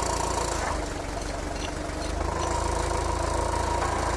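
Forklift engine idling steadily while it holds the load, with a steady whine over the engine's hum; it eases off slightly about a second in and picks up again about two seconds in.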